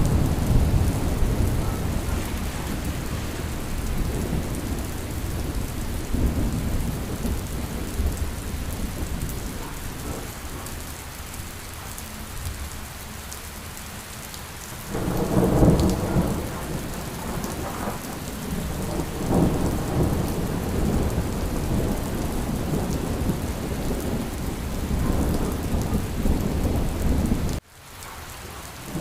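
Steady rain with low rolling thunder; a louder rumble of thunder builds about halfway through. Near the end the sound drops out abruptly for about a second, then resumes.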